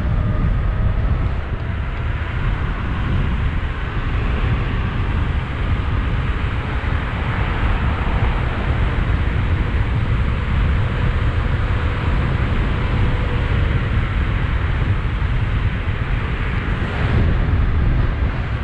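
Steady wind rumble on a helmet-mounted GoPro's microphone while riding a 72-volt electric bike, with a faint thin whine from the electric drive.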